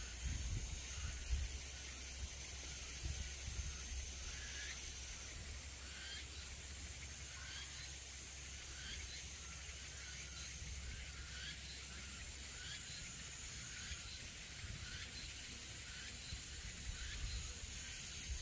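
Outdoor woodland ambience: insects give a steady high hiss, while a short rising chirp repeats about once or twice a second. Under it runs a low rumble, with a few knocks near the start.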